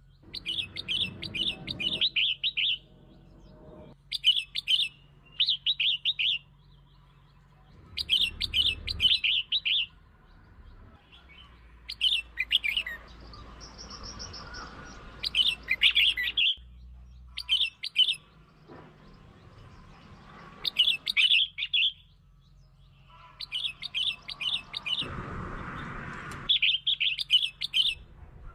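Red-whiskered bulbul singing short, bright warbling phrases, each about a second long, repeated every few seconds with pauses between.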